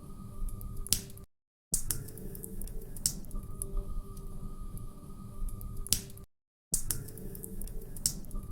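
Wood fire crackling in a fireplace, with irregular sharp pops and snaps over a low rumble. The sound cuts out completely for a moment twice, about five seconds apart.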